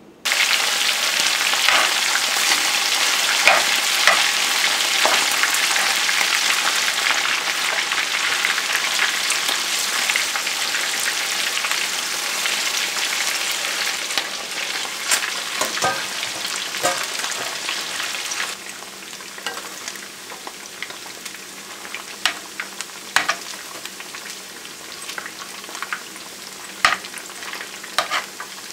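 Catfish pieces frying in hot oil in a cast-iron skillet: a dense, steady crackling sizzle that turns quieter about two-thirds of the way through. In the second half a metal spoon knocks and scrapes against the pan now and then as the pieces are turned.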